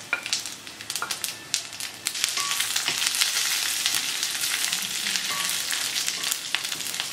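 Coconut pieces, garlic, ginger and curry leaves sizzling in hot coconut oil in a steel kadai, stirred with a wooden spatula that scrapes and knocks against the pan. The sizzle grows louder about two seconds in and then holds steady.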